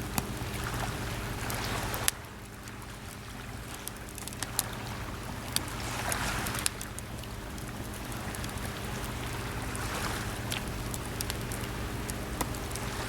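Small waves washing onto the shore, swelling and fading every few seconds, with the scattered crackles and pops of a wood campfire. A steady low hum runs underneath.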